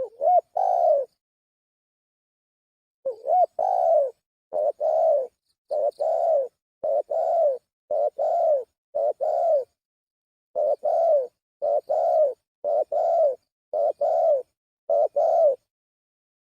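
Spotted dove (tekukur) cooing, used as a bird-catcher's lure call: after a single phrase and a pause of about two seconds, a steady run of paired coos, about one pair a second.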